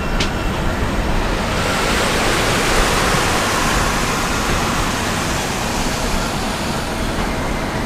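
Steady rushing noise of the Deccan Express passenger train running, wind and rail noise mixed, picked up by a camera held out beside the coach. It swells a little about two to three seconds in.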